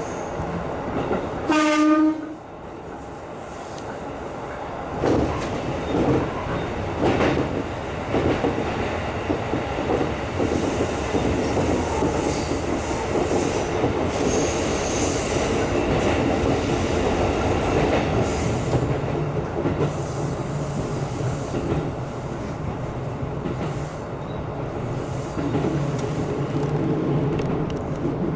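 A KiHa 200 series diesel railcar sounds one short horn blast about two seconds in, then runs on with a steady rumble of engine and wheels. A few sharp rail clacks come around five to eight seconds in.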